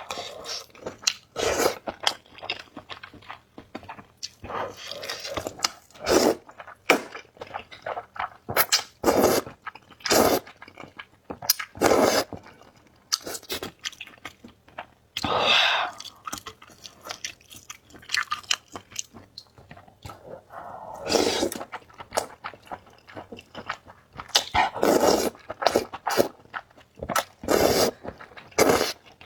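Close-miked eating: chewing and wet mouth smacks, broken by several longer slurps of spicy noodles and soup.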